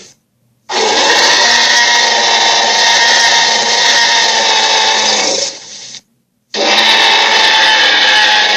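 Puss in Boots dragon toy's sound effects: a long, loud, steady whirring rush that starts about a second in, fades and cuts to silence at about six seconds, then starts again.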